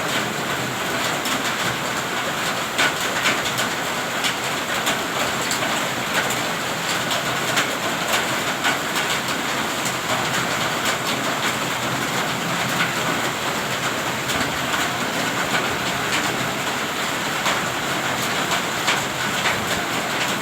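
Heavy rain falling steadily: a dense, even hiss with frequent sharp taps of single drops striking a hard surface.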